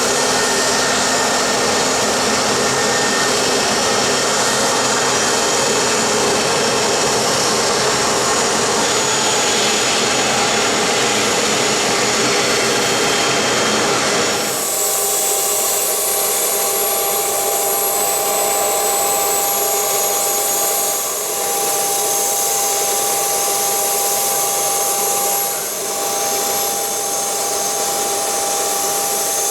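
Business-jet turbofan engines running with a steady rushing whine. About halfway through the sound changes abruptly to a different jet's engines, running steadily with a thin high whine.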